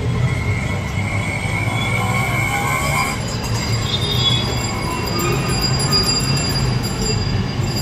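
Passing train, its wheels squealing on the rails: a steady rumble under long, high squealing tones that jump higher in pitch about three seconds in.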